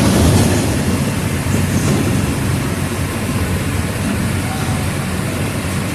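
Diesel engine of a Mercedes-Benz OF 1722M city bus running under way, a steady low drone mixed with rattle and road noise.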